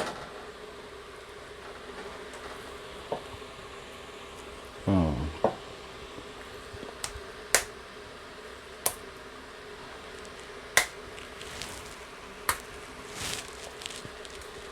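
Water boiling in a fryer, a steady hiss with a constant hum, overlaid by scattered sharp clicks and taps from a boiled egg's shell being cracked and picked off by hand. A short grunt-like voice sound comes about five seconds in.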